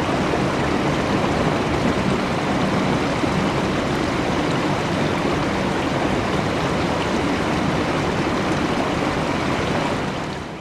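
Water running steadily, an even rushing sound that fades out near the end.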